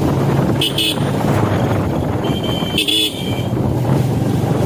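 Motorcycle riding with a steady engine hum and road noise, and a vehicle horn sounding: two short toots about half a second in, then a longer horn blast of about a second near the middle.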